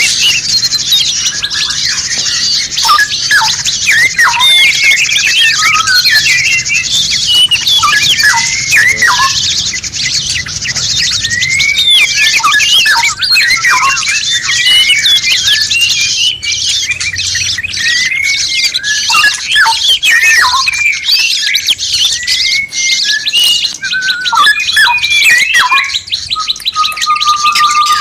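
Many songbirds chirping, whistling and chattering over one another, a layered masteran songbird-training mix. Near the end one held whistle sounds, rising at its close.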